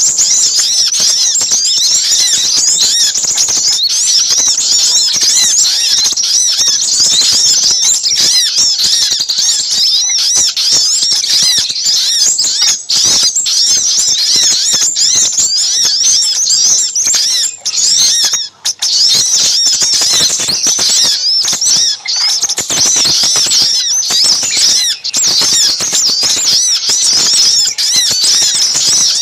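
A small-bird lure recording: a dense, unbroken chorus of high-pitched, rapid chirps and squeaky calls from sogok ontong (spiderhunters), mixed with sepah raja calls, many birds calling over one another.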